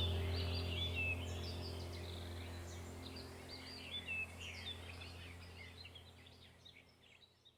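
Birds chirping and twittering in quick, varied calls over a steady low drone, all fading out to silence near the end.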